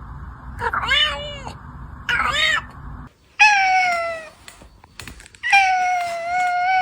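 Cats meowing: two short, arching meows, then two long drawn-out meows, the first falling in pitch and the last held steady.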